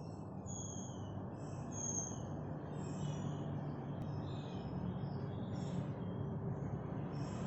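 Short, high bird chirps repeating roughly once a second, over a steady low hum.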